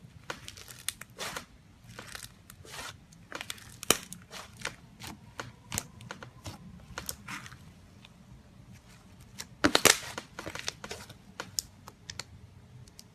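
Slime being worked by hand, giving off irregular crackling pops and snaps, with a denser, louder burst of crackles about three-quarters of the way through.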